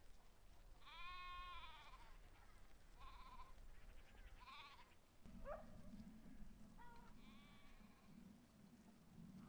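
Sheep bleating faintly, several separate calls, the first and longest about a second in.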